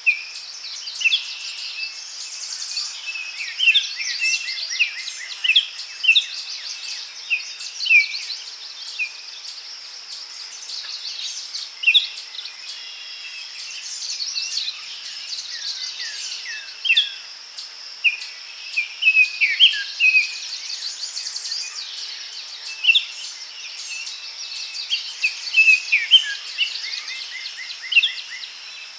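Daytime forest chorus: several birds calling and singing in short chirps and trills over a steady high buzz of insects.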